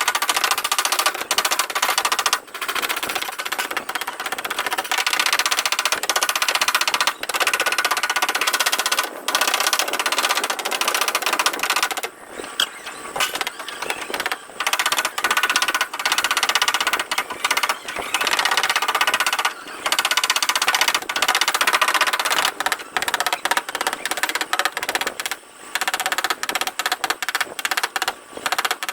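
Rapid light tapping on a car's sheet-metal body panel during paintless dent repair, with a couple of short pauses.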